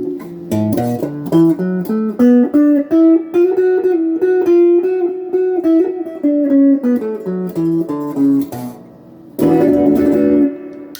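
Electric guitar on its middle pickup setting, volume and tone on 10, played through a Crate GX15R amp with a Golden Plexi overdrive pedal: a quick lead run of single picked notes, then a short chord about nine and a half seconds in that is choked off after a second.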